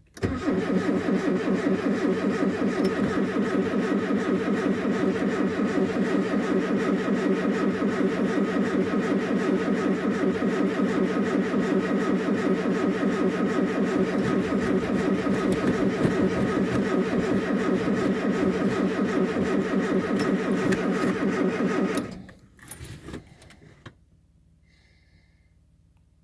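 A car's starter motor cranking the engine on a cold start, steadily and without change for about twenty seconds, with no sign of the engine catching. It cuts off suddenly near the end.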